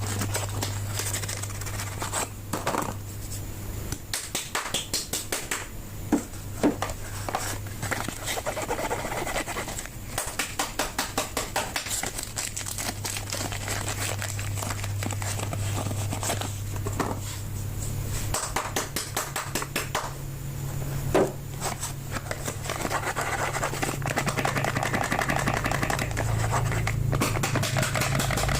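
Soap bars being unwrapped by hand: crinkling and tearing of wrappers, with scratching, scraping and tapping, some in quick runs of strokes and a couple of sharper knocks. A steady low hum runs underneath.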